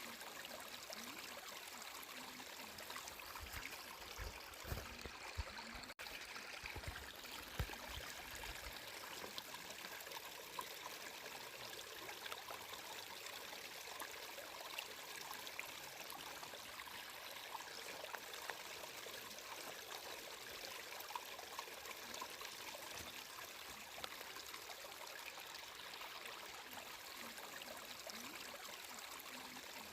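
Water flowing and trickling steadily, with small splashes and bubbling.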